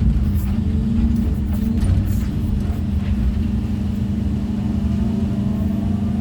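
Heavy diesel engine of an excavator running steadily at a constant pitch, with a few faint knocks in the first few seconds.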